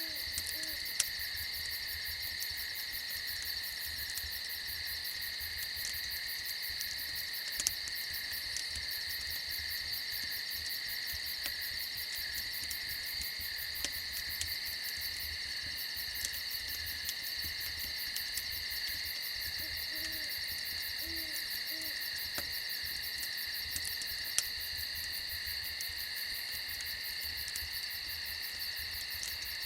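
Night chorus of crickets trilling steadily and without pause, with a few soft, low owl hoots in a short run about twenty seconds in. Occasional sharp pops from a crackling fire.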